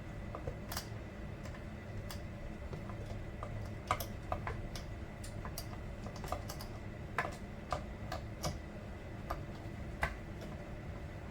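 Scattered light clicks and taps, about a dozen at irregular intervals, from hand work on a Stihl MS 462 C chainsaw, over a steady low background rumble.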